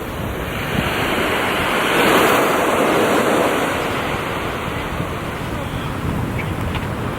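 Sea waves washing onto a beach, with wind buffeting the microphone; the surf swells loudest about two seconds in.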